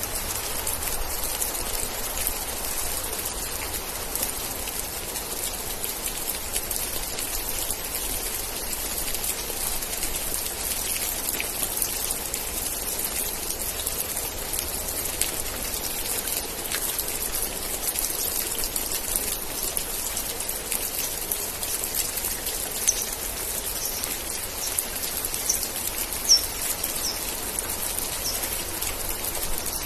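Steady rain falling, an even hiss with individual drops pattering, and two sharper, louder drop hits in the last third. A few short high chirps come through near the end.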